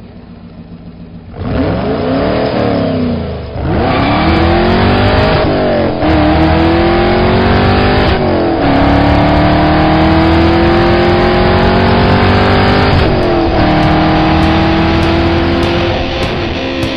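Sports car engine revving once, then accelerating hard through the gears: the pitch climbs steadily and drops sharply at each upshift, about six, eight and thirteen seconds in.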